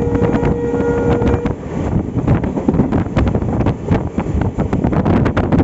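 Passenger train running, with a dense rumble and rapid clatter of wheels on the track. A long, steady horn tone, most likely from the EMD diesel locomotive, carries on from before and cuts off about a second and a half in.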